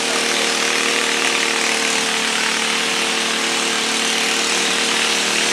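Pulling garden tractor engine running at high, steady revs under load during a pull.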